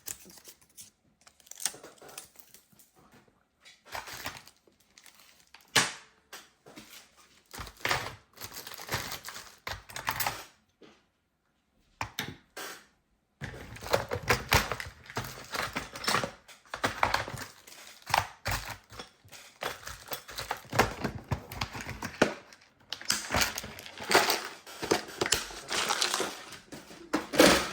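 Irregular clicks, taps and rustling from hands working on a MacBook Pro and its replacement NVMe drive, with a silent gap about halfway through.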